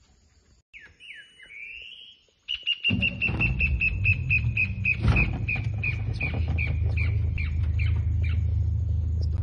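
A bird calling a long string of short, sharp notes at one pitch, quick at first and slowing gradually until they stop near the end, after a few brief gliding chirps. A low steady rumble starts underneath about three seconds in.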